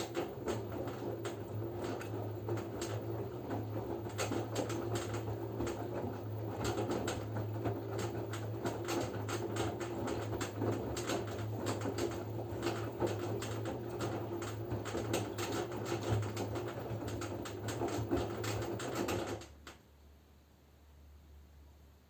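LG F10B9LD front-loading washing machine in its wash phase: the motor hums as it turns the drum, and wet laundry and water tumble with many small clicks and knocks. The drum stops suddenly about nineteen seconds in, leaving only a faint low hum.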